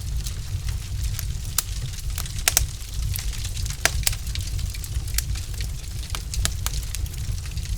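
Wood fire crackling in a fireplace: irregular sharp pops and snaps from burning logs, a few louder ones just before and around the middle, over a steady low rumble.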